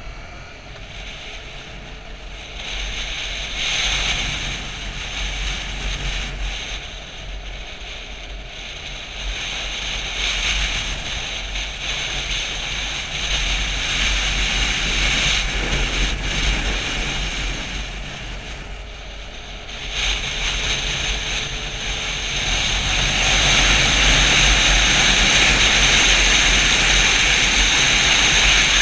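Wind rushing over the microphone while riding a Yamaha FZ-07 motorcycle, its parallel-twin engine running faintly beneath the wind. The rush swells and eases and is loudest near the end.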